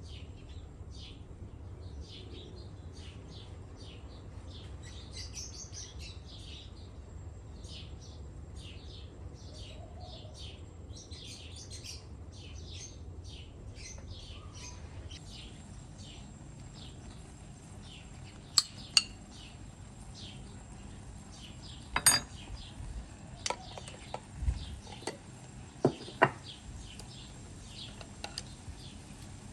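Small birds chirping with many short, repeated calls throughout. In the second half come several sharp clinks of metal cookware and utensils, some of them ringing briefly.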